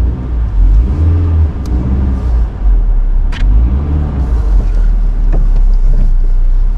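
Car engine accelerating from a pull-away, its pitch rising twice as it picks up speed, then running steadily with a heavy low rumble.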